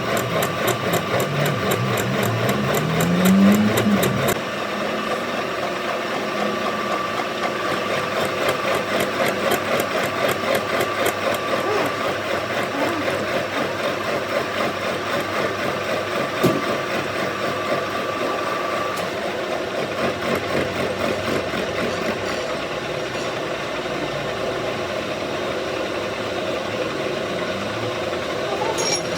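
Workshop machine tool running steadily, with a fast fine rattle and a rising pitch in the first few seconds. A steady higher tone runs until about two-thirds of the way through, and there is a single sharp knock about halfway.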